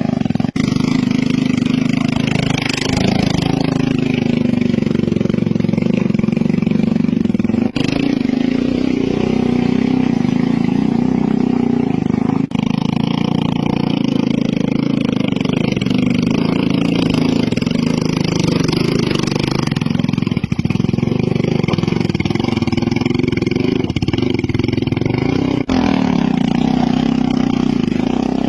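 Motorcycle engines running hard and revving under load while climbing a steep hill, the pitch rising and falling. The sound is a string of clips joined by abrupt cuts every few seconds.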